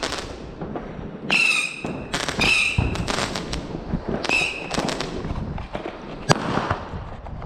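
Fireworks and firecrackers crackling and banging all around, with three short, shrill, steady whistles in the first half. A single sharp, loud crack stands out about six seconds in.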